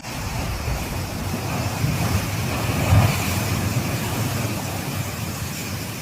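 Steady rushing storm noise of typhoon wind and rain, with gusts buffeting the microphone and a stronger gust about three seconds in.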